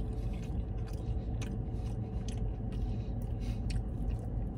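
A man chewing a forkful of loaded fries close to the microphone: small, irregular, soft crunchy clicks of chewing over a steady low hum.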